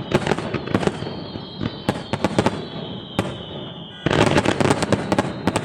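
Fireworks display: a run of sharp bangs and crackles from bursting shells, thickening into a rapid cluster of bangs about four seconds in.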